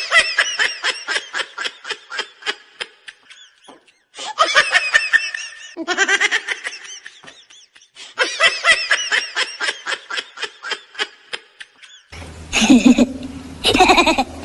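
Several runs of high-pitched, rapid laughter with dead-silent gaps between them. About twelve seconds in, street background sound comes up and a woman laughs loudly.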